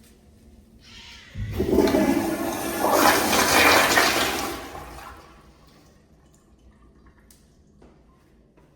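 Toilet flushing: a sudden rush of water about a second and a half in, loudest for about three seconds, then tailing off and gone by about six seconds.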